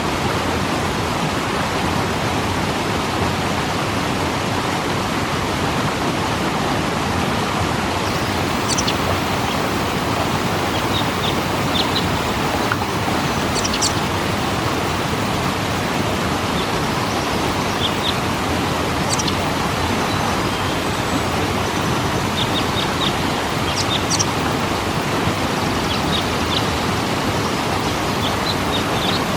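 Waterfall rushing steadily. From about a third of the way in, short high bird chirps come through now and then.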